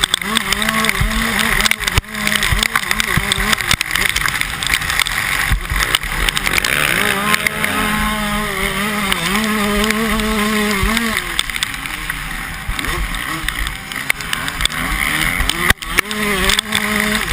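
Motocross bikes racing on a dirt track, their engines revving up and down as the riders work the throttle.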